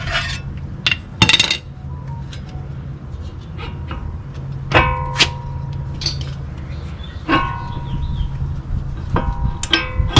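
Metal tools and parts knocking and clinking against each other during hand work on a car's front suspension. Several strikes ring on briefly with a clear tone, over a steady low hum.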